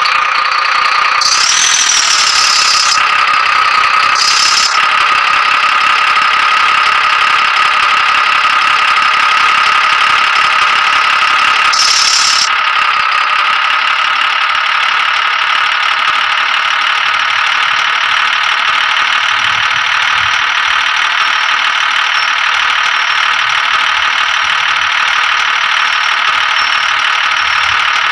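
Tractor running steadily, heard as a loud, even, high-pitched whine with no let-up. Short bursts of hiss cut in about a second in, again after four seconds, and around twelve seconds.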